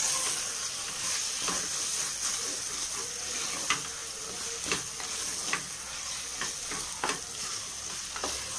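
Tomato masala sizzling in hot oil in an open pressure cooker pot, stirred with a spatula that scrapes and knocks against the pot about once a second. The masala is cooked down to the point where the oil separates out.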